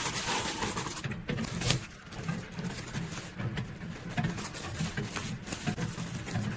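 Crinkling, rustling and light tapping of photocards and their plastic sleeves and packaging as they are handled and packed, over a continuous rain-like hiss.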